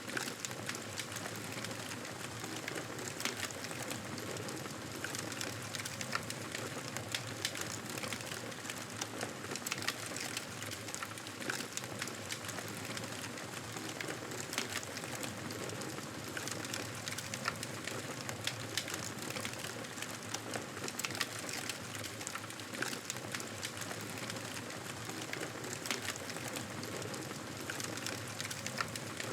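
Wood fire crackling and popping in a fireplace, with many irregular sharp pops over a steady hiss.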